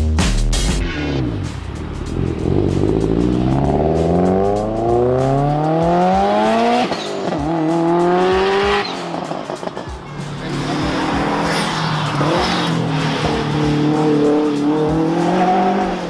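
Electronic music cuts off about a second in. Then a Subaru Impreza WRX STI's turbocharged flat-four engine accelerates hard, rising steeply in pitch, breaking at a gear change and rising again, then holding high revs with a wavering pitch near the end.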